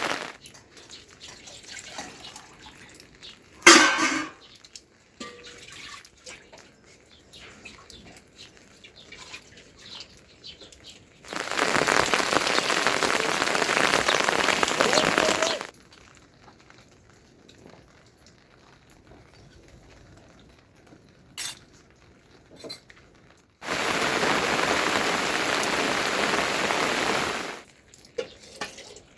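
Heavy rain falling, heard in two stretches of several seconds that start and stop abruptly. Between them are quieter stretches with scattered small clicks and a loud knock about four seconds in.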